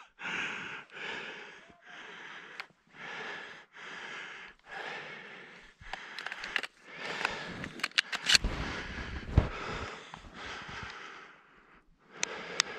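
Footsteps of a person walking steadily through snow, about one step a second, with a few sharp clicks and a low thud about two-thirds of the way through.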